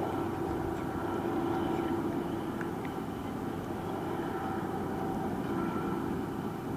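Intermodal freight train rolling past on the rails: a steady rumble of wheels with several even, high tones held over it.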